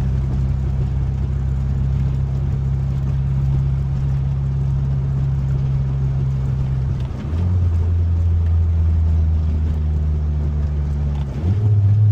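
1995 Mitsubishi Eclipse GSX's turbocharged 4G63 four-cylinder engine running steadily under way, heard from inside the cabin. About seven seconds in the note dips briefly and settles lower, as with a gear change, and it dips and changes again shortly before the end.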